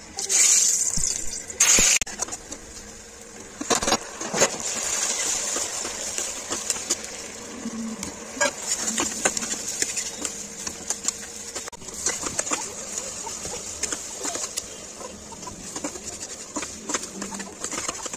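Onion-tomato masala frying in a steel pressure cooker, with a steady hiss of sizzling, while a steel ladle stirs it and scrapes and taps against the pot. The sizzling is loudest in the first couple of seconds.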